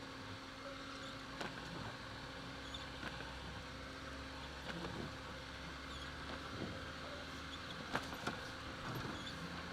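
Lada Niva VAZ-2121 driving, heard from inside the cabin: a steady engine and drivetrain hum with road noise, and two sharp knocks about eight seconds in.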